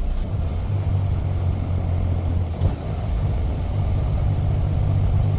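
Semi-truck's diesel engine pulling away under load, a low steady hum that rises in pitch about a third of a second in, dips briefly midway, then climbs again.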